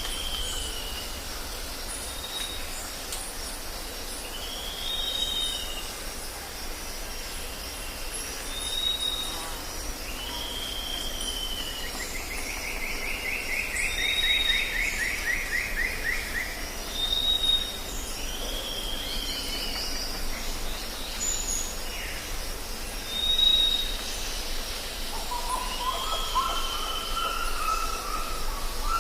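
Jungle ambience: several birds repeating short whistled calls, with a rapid falling trill about halfway through and a lower, rising-and-falling call near the end, over a steady high-pitched hiss.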